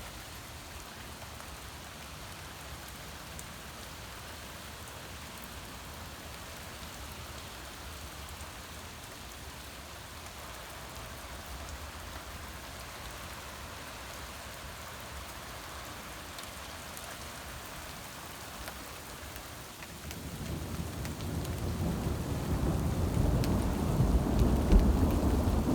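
Heavy rain falling steadily. About 20 seconds in, a long low rumble of thunder rises and grows louder toward the end.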